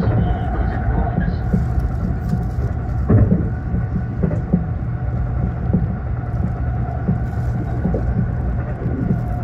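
Inside a passenger train running at speed: a steady rumble with a held whine, and wheels knocking over rail joints again and again, the loudest knock about three seconds in.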